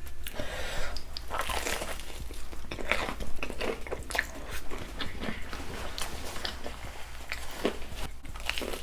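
Close-miked eating of a saucy seafood boil: irregular biting, crunching and chewing, with many short crackles and wet smacks.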